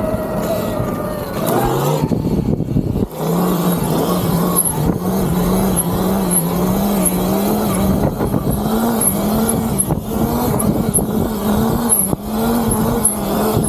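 Electric dirt bike's motor whining, its pitch rising and falling as the throttle is worked, with wind rumbling on the microphone.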